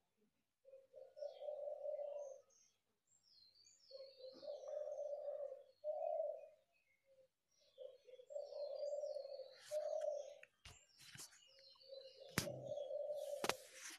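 Faint birdsong: a low call repeated in phrases one to two seconds long, coming back every few seconds, with short high chirps between them. A few sharp clicks near the end.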